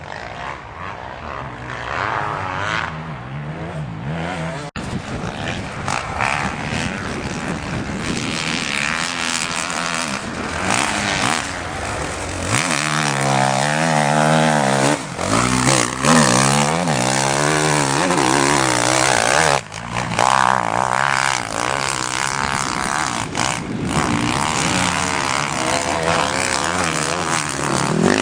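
Motocross motorcycle engines revving and accelerating, their pitch rising and falling repeatedly, with more than one bike heard at once at times.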